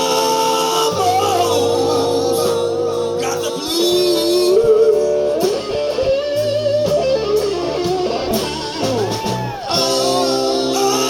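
Live blues band playing an instrumental break between verses: a lead guitar bends and wavers through notes over steady bass and chords.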